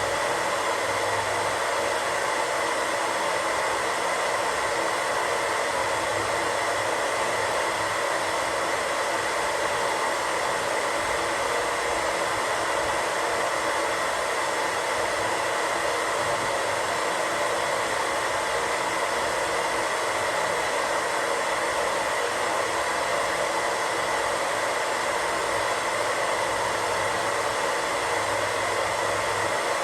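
Radio static: a steady, unbroken hiss of white noise from an untuned radio, with a faint steady tone underneath.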